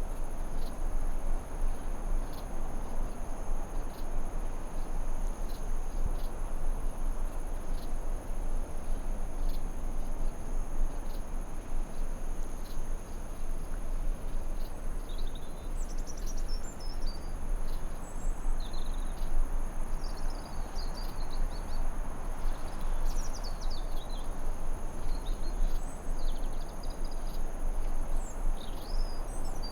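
Forest ambience: a steady rushing noise bed under a continuous high insect drone. From about halfway through, birds chirp in short, quick phrases.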